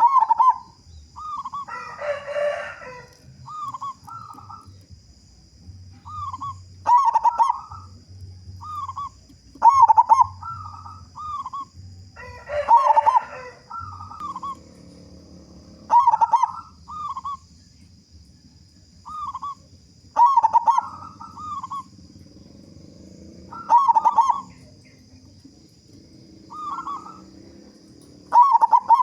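Zebra dove (perkutut) cooing: short, clipped coo phrases repeated every second or two. Twice a brief, harsher noisy burst breaks in.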